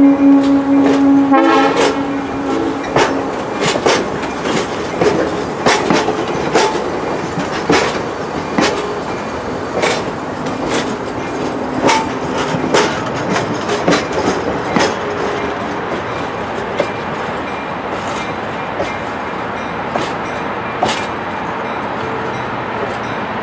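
Excursion train's passenger cars rolling past slowly, steel wheels clicking over rail joints in irregular knocks over a steady rumble, the clicks thinning as the train draws away. A train horn sounds one steady note at the start and cuts off about a second and a half in.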